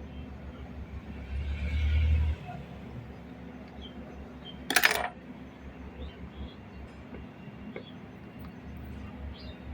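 Bench work during soldering: a low steady hum that swells briefly near the start, and a single short clatter about five seconds in, like a small metal tool or part set down, which is the loudest sound.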